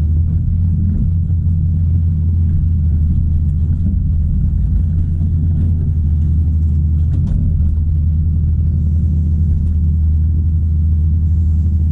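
Caterpillar 973C track loader's diesel engine running steadily, a deep, even drone.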